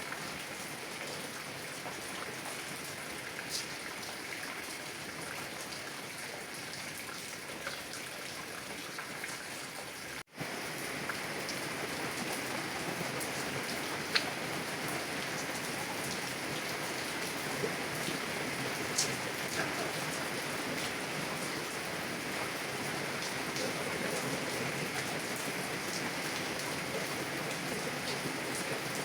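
Heavy rain hitting a car window: a steady patter with single drops ticking sharply here and there. About ten seconds in the sound cuts out for an instant, and afterwards the rain is slightly louder.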